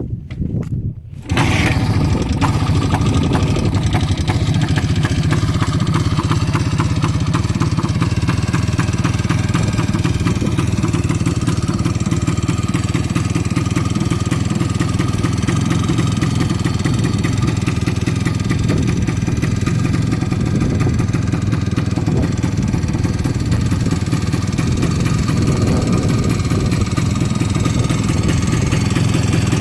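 Izh Planeta 3 motorcycle's single-cylinder two-stroke engine catching about a second in, then running, at idle. The owner puts its unstable running down to a faulty ignition coil.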